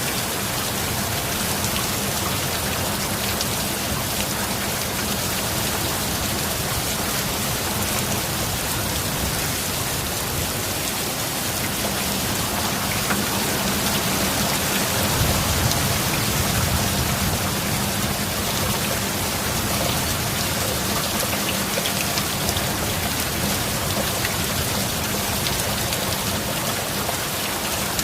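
Steady heavy rain falling, a dense, even hiss of drops. A low rumble swells briefly about halfway through.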